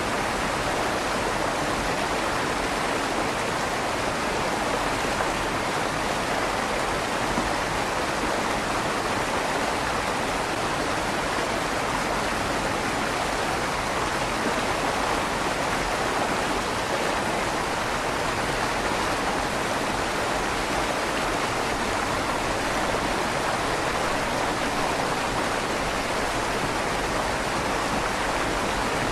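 River water flowing steadily under a stone bridge, an even rushing with a slight echo from the stone tunnel.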